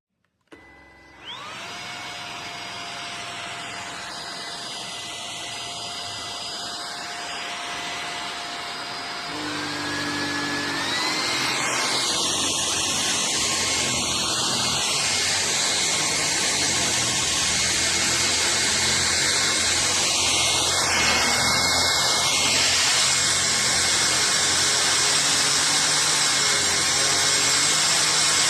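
Hoover HF3 cordless stick vacuum running with a steady motor whine, starting about a second in. About nine seconds in it grows louder and its whine rises in pitch, then runs on steadily.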